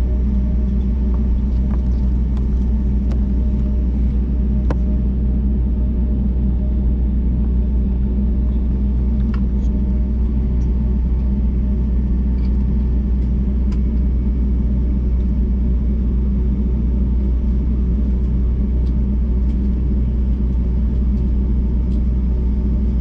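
Steady low rumble of a jet airliner's engines and airflow heard from inside the passenger cabin around takeoff, with a few faint ticks and rattles from the cabin fittings.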